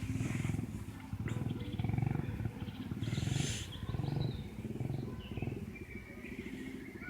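Dirt bike engine running with a rapid putter, swelling and easing in loudness.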